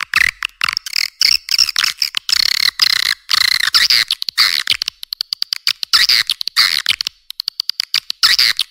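Recorded swiftlet calls used as a swiftlet-house lure sound: dense, fast trains of clicks mixed with chirping twitters, all high-pitched with the lows cut away.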